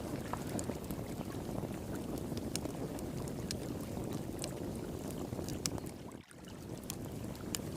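Wood fire crackling with scattered sharp pops over the steady rush of flowing water. The whole sound briefly dips about six seconds in.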